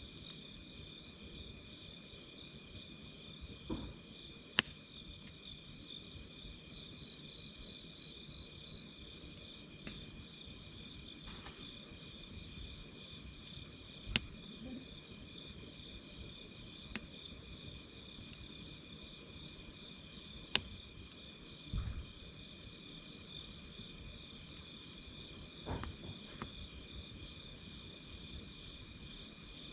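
Insects chirring steadily in a high, pulsing drone, with a wood campfire giving a few sharp, isolated pops and crackles, three of them standing out loudly.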